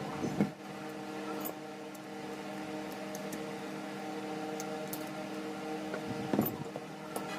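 A table fan runs with a steady hum, broken by a brief clatter just after the start and again about six seconds in.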